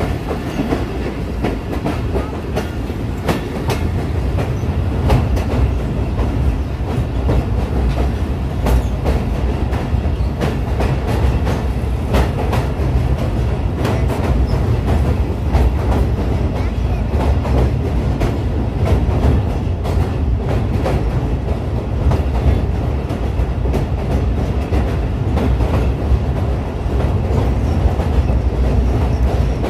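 Awam Express passenger train running along the track: a steady low rumble with frequent sharp clicks of the wheels crossing rail joints.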